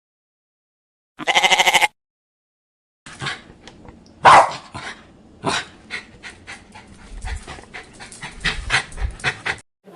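A single short, quavering bleat of a sheep or goat. A moment later a dog starts barking repeatedly in quick, uneven barks, the loudest near the start of the run.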